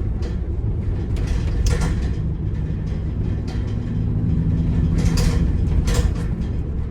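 Cabin noise inside a delivery van while driving: steady engine and road rumble, with a few brief clatters.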